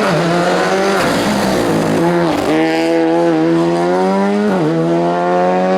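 Rally car engine revving hard under full throttle. The revs dip sharply and climb back three times: near the start, about two seconds in, and about four and a half seconds in.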